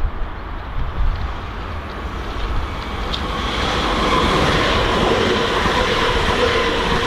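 A train approaching along the track, its rushing noise growing louder over the first few seconds, then running steadily with a whine of several high tones from about halfway through.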